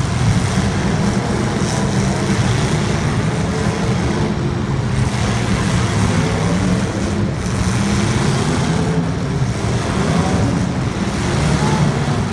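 Race car engines running steadily in a loud, continuous drone, with faint rising and falling pitch changes as engines rev.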